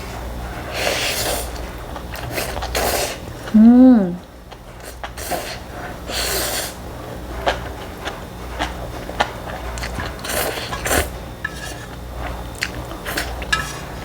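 Close-up eating sounds of a person eating spicy ramen noodles: several slurps and mouth noises of about half a second each, with sharp clicks of utensils against the bowl between them. A short hummed 'mm' rises and falls about four seconds in.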